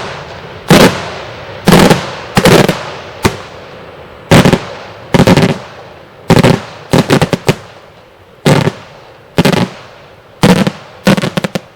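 Daytime fireworks shells bursting in a rapid string of loud bangs, roughly one a second, each trailing off in an echo, with a couple of quick rattling clusters of reports.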